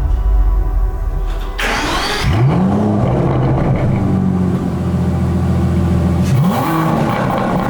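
Aston Martin DBS 770 Ultimate's twin-turbo V12 starting up. A sudden burst about a second and a half in flares into rising revs, then settles into a steady fast idle, with a short rev rising again near the end.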